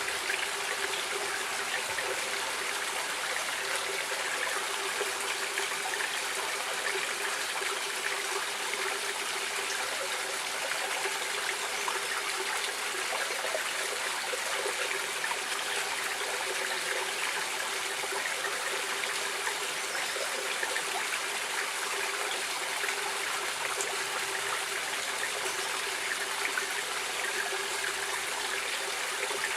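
A stream of running water flowing steadily, an even, unbroken rush with trickling.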